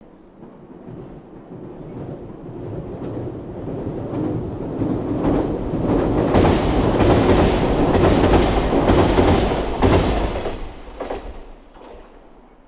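A train passing by. The rumble swells over several seconds, and at its loudest the wheels clack over rail joints in a quick run of beats before the sound fades away.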